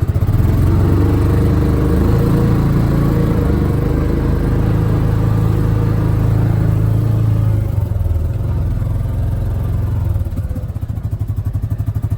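Vehicle engine running steadily and close by, just after being started. It eases off a little about eight seconds in and settles into an even, throbbing idle near the end.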